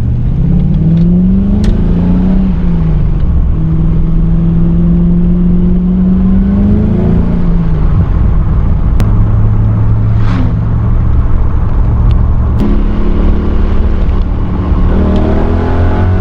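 Car engine pulling through the gears on the move: its pitch climbs, drops back at a shift and climbs again several times, over a steady rumble of road noise.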